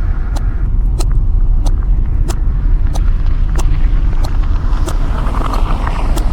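Inside a moving car's cabin: a steady engine and road rumble, with sharp ticks at an even beat of about three every two seconds.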